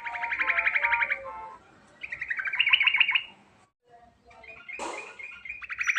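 Yellow-vented bulbul (trucukan) singing: three quick, rattling trilled phrases of rapidly repeated notes, each about a second long with short gaps between. A brief noisy burst sounds about five seconds in.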